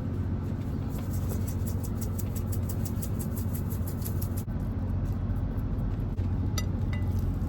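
Steady low hum of a parked truck's engine idling, with a quick run of high crackles over it during the first half and two short high chirps near the end.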